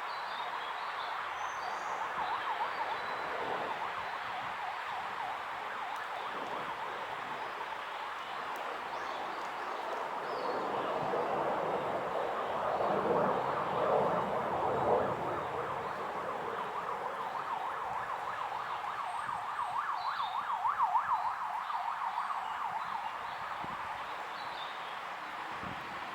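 A long wavering, wailing tone that runs throughout, swelling in loudness about halfway through and again near the end.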